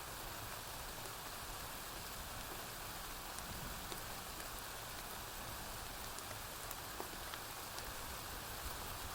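Steady rain falling on a porch roof, an even hiss, with a few faint sharp clicks now and then.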